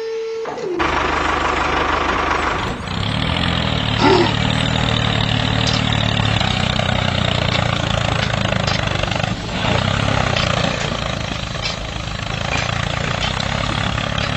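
An engine starts running about a second in and keeps running steadily, with a few short knocks over it.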